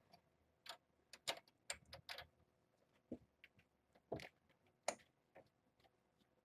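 Faint, irregular clicks and taps, about one or two a second.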